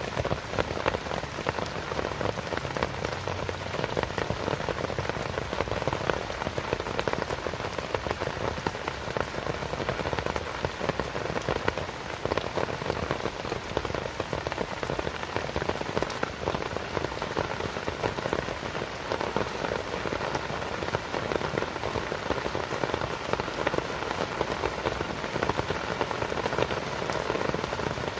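Steady rain falling, a dense patter of individual drops hitting a surface.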